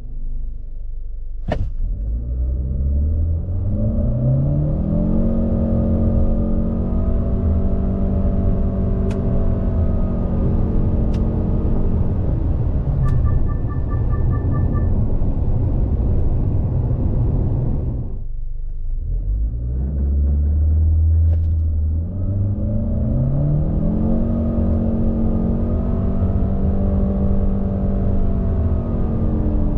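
2023 Chery Omoda 5's 1.5-litre turbo-petrol four-cylinder accelerating hard through its CVT automatic. The engine pitch climbs for a few seconds, then holds steady as the CVT keeps the revs constant. About 18 seconds in it drops away, and from about 22 seconds it climbs and holds again. A short run of electronic chime beeps sounds about 13 seconds in.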